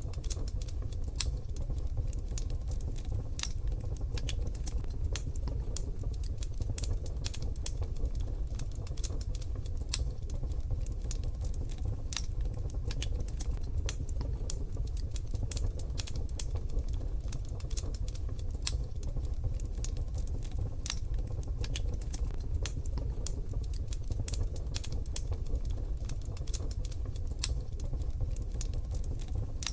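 Wood fire in a wood-burning stove crackling: irregular sharp pops and snaps over a steady low rumble.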